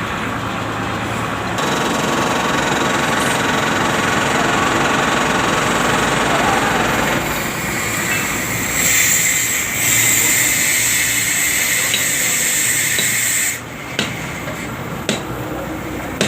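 A loud, steady hiss that grows sharper partway through and cuts off suddenly near the end, followed by two sharp clicks.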